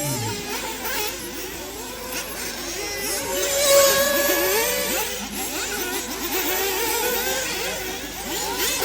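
Several 1/8-scale nitro off-road buggies racing. Their small two-stroke glow engines are revving up and backing off over and over, several pitches rising and falling on top of one another.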